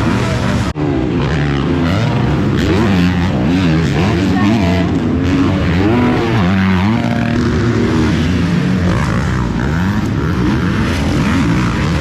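Several motocross bike engines revving on the track, their pitch rising and falling with throttle and gear changes as the bikes overlap; the sound drops out for an instant a little under a second in.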